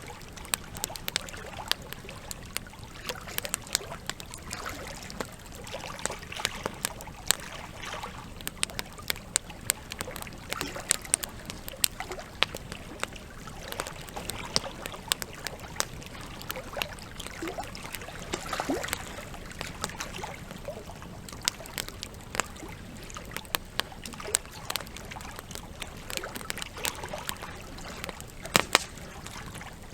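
Wood campfire burning, with frequent irregular crackles and sharp pops from the logs over a steady hiss, alongside trickling water.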